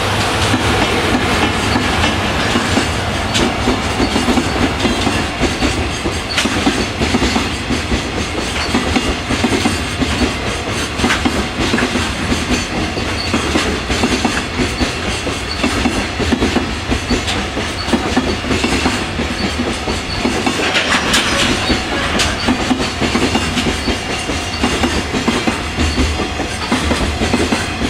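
Freight train rolling past at speed, its wagon wheels clacking steadily over the rail joints.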